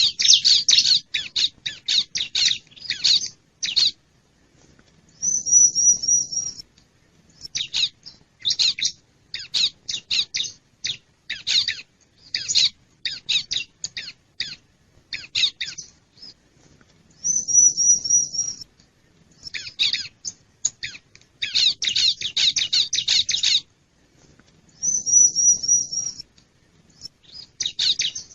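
Bar-winged prinia (ciblek) calling: bursts of rapid, scratchy chirps broken by short pauses, with a high, even trill three times. It is a lure call of the kind used to draw wild birds in.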